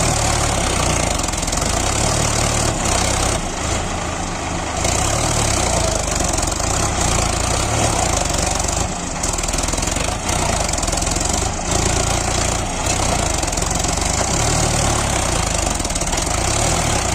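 Sonalika DI 745 tractor's diesel engine running steadily, with a pulsing low rumble and a few brief dips in level.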